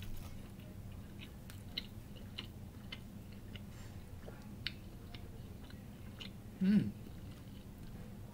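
A person chewing a mouthful of soft roast beef and cheddar sandwich close to the microphone: scattered small wet mouth clicks and smacks. A brief falling vocal sound comes about six and a half seconds in.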